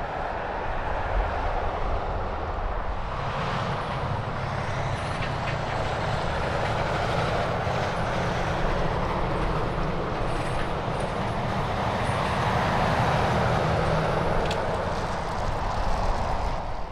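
Heavy diesel truck running on the highway, its engine hum and tyre and road noise steady and loud throughout, cutting off suddenly at the end.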